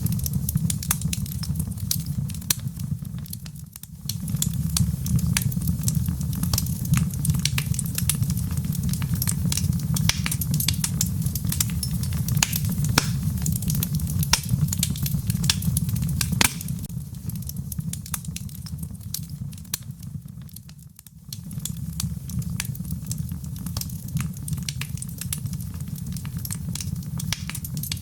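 Wood fire in a fireplace crackling, with frequent sharp pops and snaps over a steady low rumble. The sound dips briefly twice, about four seconds in and again near twenty-one seconds.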